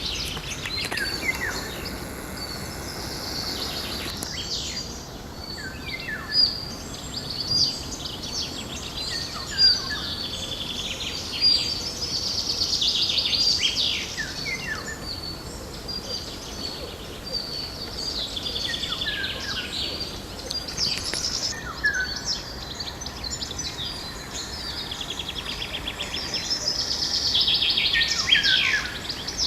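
Several songbirds singing together in a morning chorus: overlapping chirps, whistled notes and fast trills, densest around the middle and near the end, over a steady background noise.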